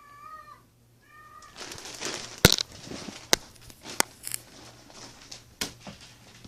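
A cat meows once, briefly, at the start. Then comes rustling and handling noise with a few sharp knocks, the loudest about two and a half seconds in.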